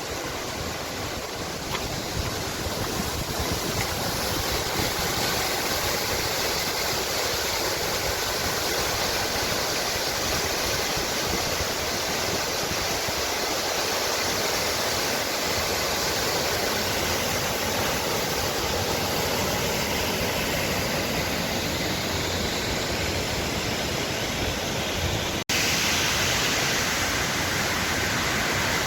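Steady rushing of a large waterfall, with a momentary break near the end after which it continues slightly louder.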